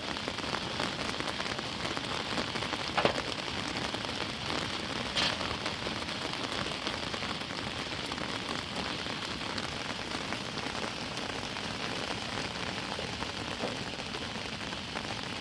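Steady heavy rain falling, with a few sharper drop hits standing out about three and five seconds in.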